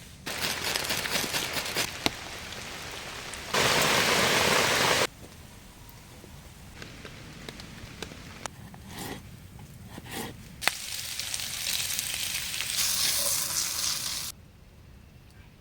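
Rain falling, in several stretches that start and stop abruptly. The loudest is a heavy downpour about three and a half seconds in that lasts a second and a half, with scattered sharp drip-like clicks in the quieter middle part.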